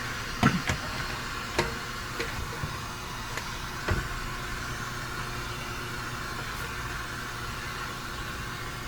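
Steady FM radio hiss playing through loudspeakers, the tuner set between stations to compare the hiss in two speakers. A few sharp clicks or knocks sound in the first four seconds, the loudest about half a second in.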